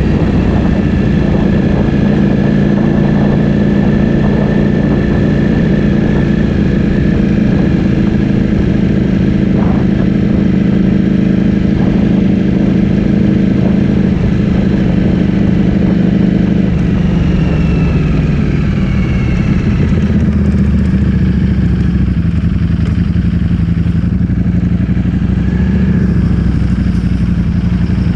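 Ducati Streetfighter V4S's 1103 cc V4 engine through an Akrapovic full-system exhaust, heard while riding at steady revs. The engine note falls about two-thirds of the way through as the revs drop, then holds at a lower, steady pitch.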